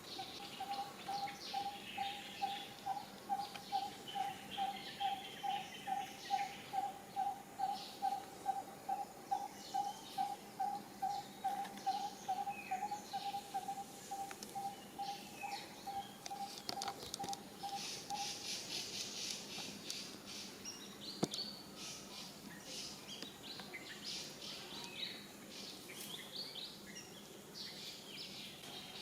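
Forest birdsong: one bird repeats a single mid-pitched note about twice a second for most of the first two-thirds, over scattered higher chirps and tweets from other birds. Later a rapid, high buzzing trill comes in.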